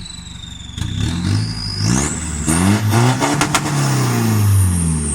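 Turbocharged Chevrolet pickup engine revved in neutral, once lightly and then hard, with the aftermarket turbo's high whistle climbing steeply with the revs and then gliding down as the engine falls back. There is a brief rattle at the peak of the rev.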